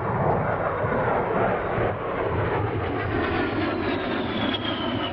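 A-10 Warthog's twin TF34 turbofan engines running as the jet flies past, a dense rumble with a thin high whine that falls in pitch near the end.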